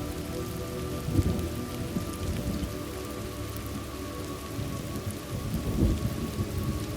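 Thunderstorm ambience: steady rain with low rumbles of thunder, one about a second in and a longer one near six seconds.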